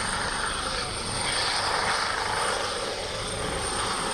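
Aircraft engine running: a steady rushing noise with no breaks.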